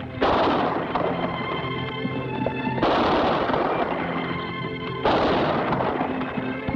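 Three gunshots, each with a long echoing decay, spaced a little over two seconds apart.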